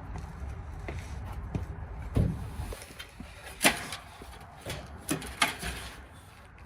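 Scattered clicks and knocks of hands working on the dryer's wiring and metal panels, the sharpest about three and a half seconds in and two more close together about five seconds in, over a low steady rumble.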